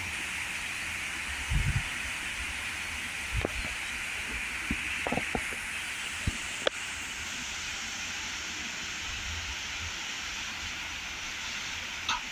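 Heavy storm rain and wind making a steady hiss, with a few short low thumps scattered through it.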